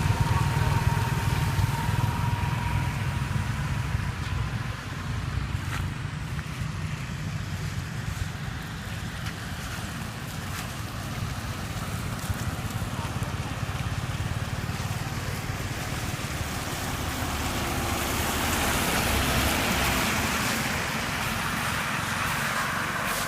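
Steady low rumble of a vehicle on the road during a hailstorm, with scattered ticks. A hiss swells about 18 seconds in and eases off a few seconds later.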